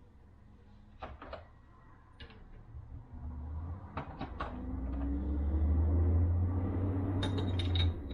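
Light metal clicks and knocks, then several seconds of a steady low whirring with a rough hiss that stops suddenly near the end, from tools working a bushing out of a 42RE transmission drum.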